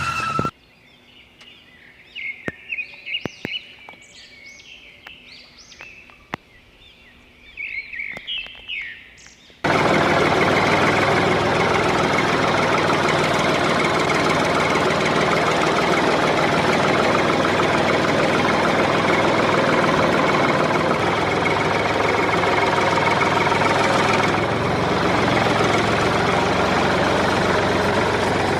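Birds chirping over faint background with a few clicks, then a loud, steady machine running noise starts suddenly about ten seconds in and continues.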